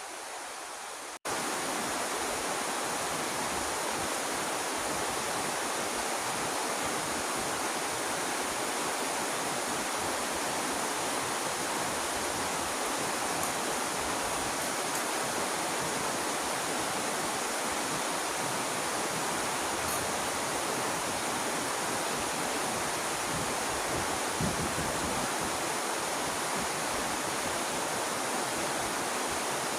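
Heavy rain falling steadily, a dense, even hiss of water that starts abruptly about a second in.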